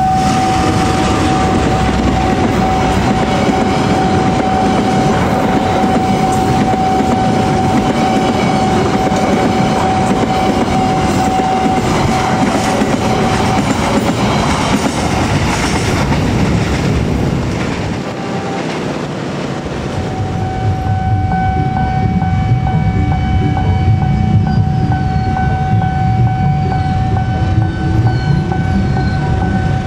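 A diesel-electric locomotive hauling a long passenger train at speed: engine running and wheels clacking over the rail joints, with a steady high warning tone from the level-crossing signal. After a short dip about two-thirds of the way in, a second diesel-hauled passenger train approaches, and the same warning tone sounds again.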